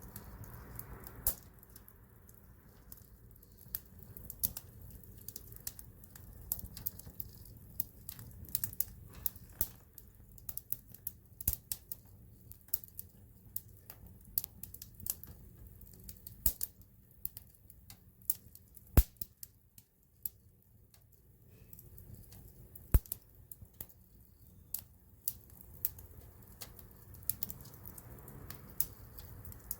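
Wood campfire crackling with a steady scatter of irregular sharp pops and snaps over a low steady rumble. Two pops stand out as the loudest, about two-thirds of the way through and again a few seconds later.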